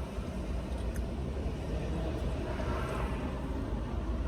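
Low, steady rumble of a car heard from inside the cabin.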